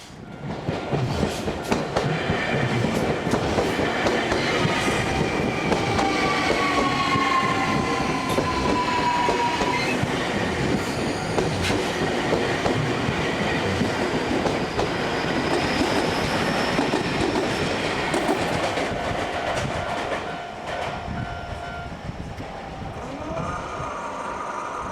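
Keio 1000-series electric train passing over a level crossing, its wheels clattering over the rail joints. A whine falls in pitch during the first ten seconds. The sound comes in suddenly about half a second in and eases after about twenty seconds.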